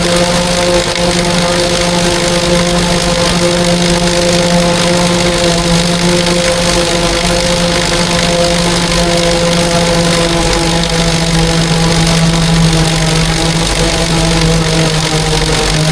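Heavy farm machinery running steadily during corn silage harvest: a constant engine drone with a steady pitch over a broad mechanical whir, holding level throughout.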